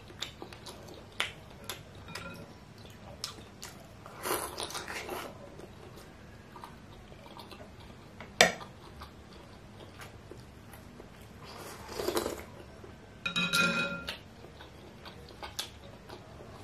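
Close-miked chewing and mouth sounds of a man eating a large bakso meatball stuffed with tofu: scattered small clicks and a few louder wet bursts. A single sharp knock about eight seconds in.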